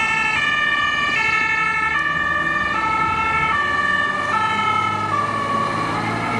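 Fire trucks' two-tone emergency horns sounding, switching between a high and a low pitch about every 0.8 seconds. More than one horn overlaps, and there is a vehicle rumble underneath.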